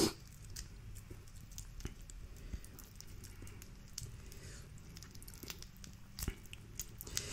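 Faint eating sounds: quiet chewing with scattered soft clicks and crackles of seafood being handled, the sharpest click about six seconds in.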